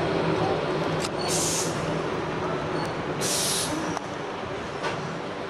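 Enoshima Electric Railway train heard from inside the passenger car: a steady running rumble with a low hum that fades out in the first couple of seconds. Two short bursts of hissing air come about a second and three seconds in, with a few light clicks.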